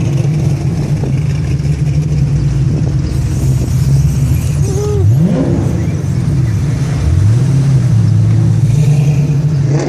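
Classic car engines running at low speed in a steady low rumble. About five seconds in, one engine revs up and settles back.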